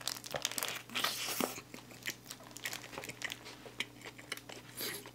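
A close-miked bite into a McDonald's 1955 Smoky bacon burger, then chewing, with crunchy crackles. The clicks come in quick, irregular clusters, busiest in the first second and a half and sparser after.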